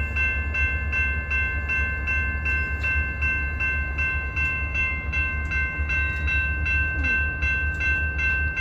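Railroad grade-crossing warning bell ringing in a fast, even rhythm, with a steady low rumble beneath.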